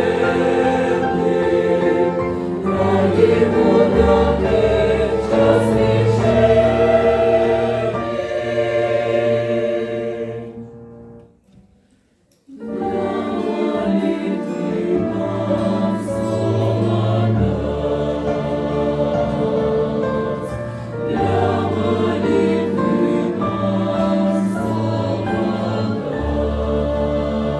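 Church choir singing a hymn, breaking off briefly about halfway through before the singing resumes.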